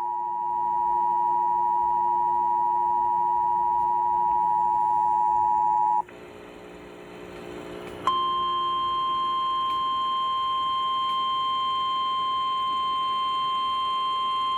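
Emergency Alert System two-tone attention signal, two steady tones sounding together, cutting off about six seconds in. After a short stretch of faint hum, a single steady warning alarm tone starts about eight seconds in and holds, the NOAA Weather Radio alert that precedes a severe thunderstorm warning.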